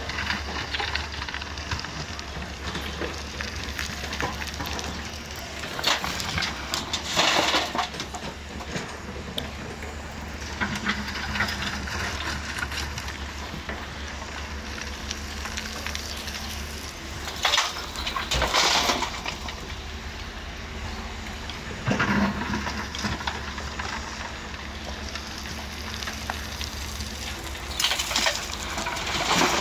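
DX140 excavator's diesel engine running steadily, with four louder rushing noises of a second or two each spread through.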